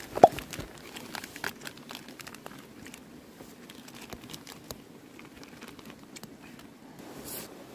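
Campfire burning, its wood crackling with irregular small snaps and one sharp loud pop just after the start.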